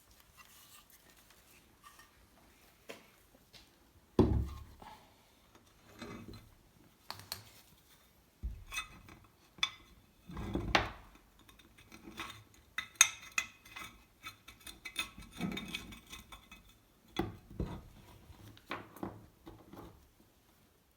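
Metal clinking and knocking as the parts of a rusty bench vise are handled, set down and knocked together, with scraping between the strikes. The loudest knock comes about four seconds in, with more clusters of knocks later on.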